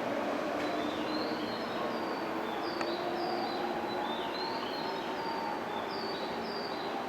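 Bird-like chirping: short, high, falling chirps, mostly in pairs, repeating every half second or so, over a steady background hum and hiss.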